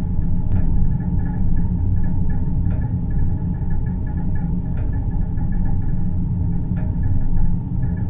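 Synthetic deep-space ambience: a steady, deep rumbling drone with faint higher tones hovering above it, and a faint tick about every two seconds.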